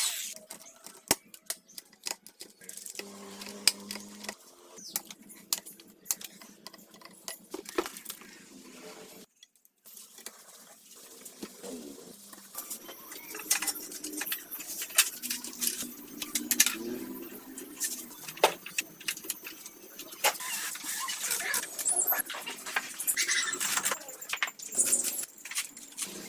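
Scattered clicks, taps and light clinks of small metal parts and hand tools being handled in workshop work, with a short drop to near silence about nine seconds in.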